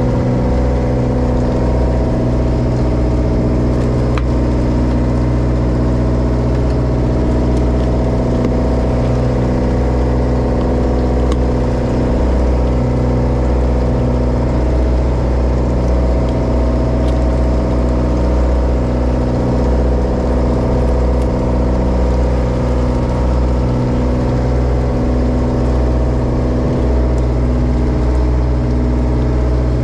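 Diesel engine of a small Japanese bottom-trawl fishing boat running steadily at constant speed, a deep even drone heard on board.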